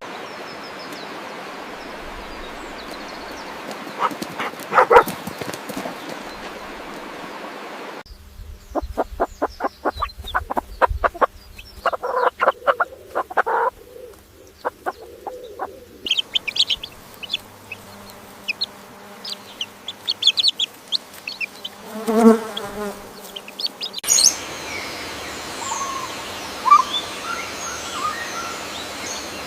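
Chickens and other small birds in several short clips cut together, with clucking, chirping and a run of quick clicks. The sound changes abruptly about every eight seconds.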